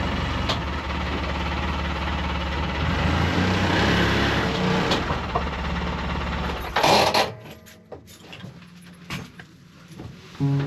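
A vehicle engine running steadily. About seven seconds in comes a loud bang, after which the engine sound drops away, leaving only a few faint knocks.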